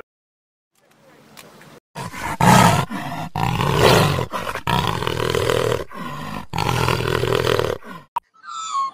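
Jaguar roaring: a run of loud roaring calls in several pulses with short breaks, starting about two seconds in and stopping shortly before the end.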